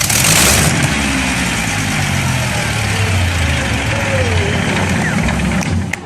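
A large engine running steadily with a deep, low sound, opening with a loud rush of noise in the first half-second.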